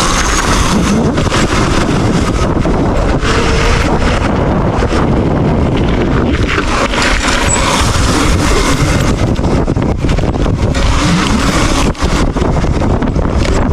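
Dirt bike being ridden: a loud, steady rush of motor and wind noise, with a brief dip about twelve seconds in.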